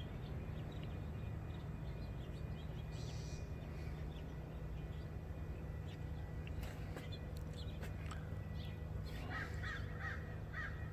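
Bird calling outdoors, with a run of about five short calls near the end, over a steady low background hum.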